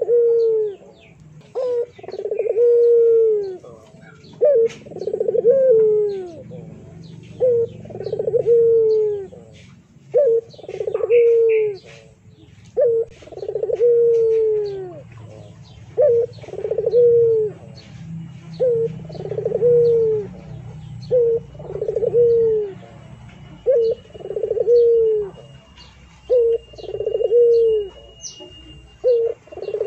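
A bird calling over and over in low notes, each call a short note followed by a longer falling one, about every two seconds, with faint higher chirps and a steady low hum underneath.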